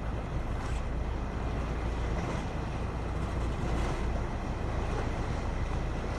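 Steady wind rumble buffeting the microphone, with water noise from a sailboat under way.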